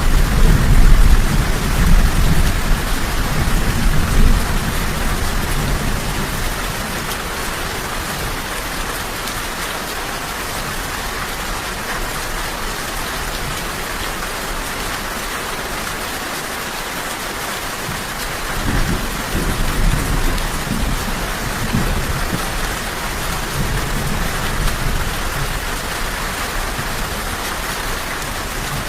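Steady rain with rolling thunder: low rumbles swell in the first few seconds, fade, then build again about two-thirds of the way in.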